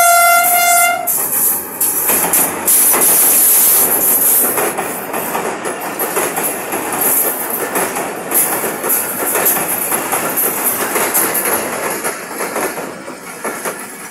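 A diesel locomotive horn blast, GE U40 class, ends about two seconds in. Then a passenger train runs across a rail bridge: a continuous rumble with the rapid clickety-clack of wheels over the rails, easing off near the end.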